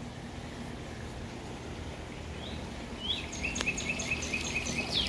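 A songbird calling over a steady low hum: a couple of rising chirps, then a quick run of six or seven short repeated notes, about four a second, ending in a swooping note.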